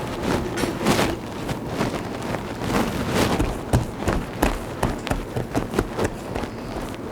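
Irregular knocks, taps and rustling from things being handled in a kitchen.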